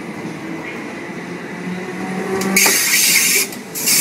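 Train running close past the platform: a low hum, then about two and a half seconds in a sudden loud rushing hiss that startles the listener. It drops away for a moment and comes straight back.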